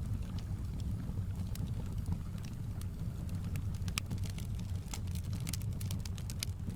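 Wood fire crackling, with scattered sharp pops and snaps, over the steady low rush of a flowing river.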